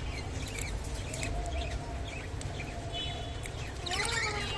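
Budgerigars chirping and warbling, short sharp chirps mixed with wavering chatter, getting busier and louder near the end.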